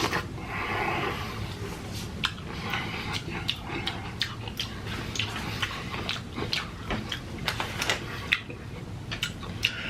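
Close-miked eating sounds of a person tasting a Dairy Queen Blizzard: many small wet mouth clicks and smacks from chewing, scattered irregularly throughout.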